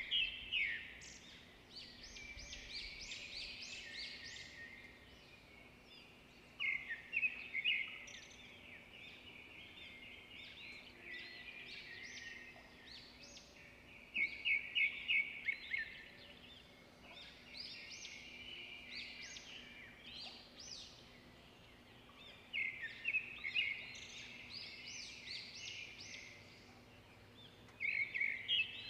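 Songbird singing: repeated bursts of rapid, high chirps and trills every several seconds, with softer twittering between them.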